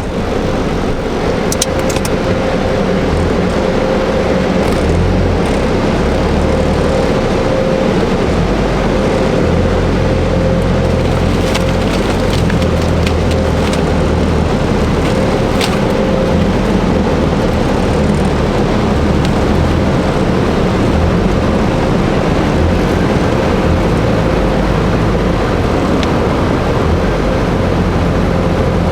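Automatic car wash air dryer blowers running through the drying stage. It is a loud, steady rush of air with a constant tone running through it.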